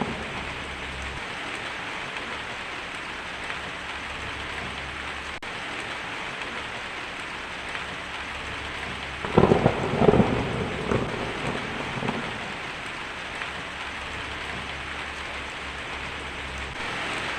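Steady heavy rain hissing, with a rumble of thunder that breaks in about halfway through, crackles for a couple of seconds, then fades back under the rain.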